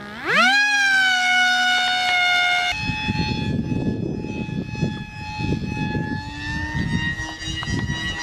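High-pitched electric motor whine of a radio-controlled model plane, spooling up fast and then holding steady. About a third of the way in the pitch jumps to a new steady note that slowly rises, with gusty rumbling underneath.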